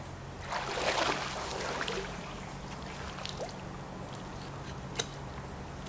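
Canal water splashing and trickling for a second or two as a magnet-fishing rope and magnet are worked in the water, followed by a few faint ticks and one sharp click about five seconds in.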